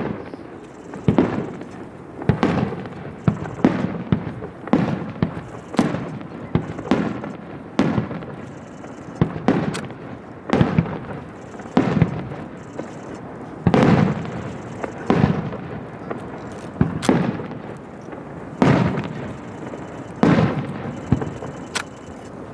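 Aerial fireworks shells bursting one after another, about one bang a second, each bang trailing off in a rumbling echo.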